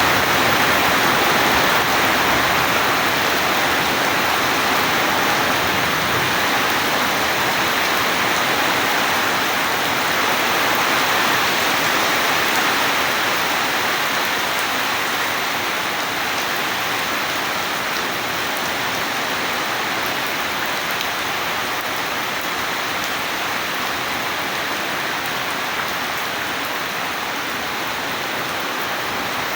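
Steady heavy rain falling, an even dense hiss that eases slightly over the stretch, with no thunderclap.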